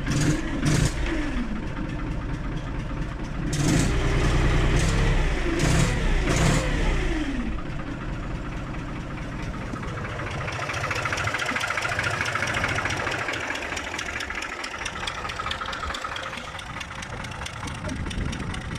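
Fiat 60-90 tractor's diesel engine running shortly after a cold start at −2 °C, with a few sharp knocks. It is revved up about four seconds in and falls back in pitch by about seven seconds. From about ten seconds a steady rushing noise rises over the quieter running engine.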